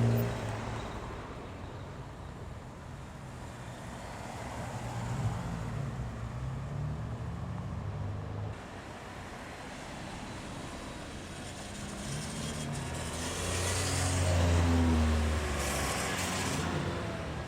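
Japanese cars driving slowly past one after another, their engines' notes rising and falling as each comes and goes. The loudest car passes about two-thirds of the way through.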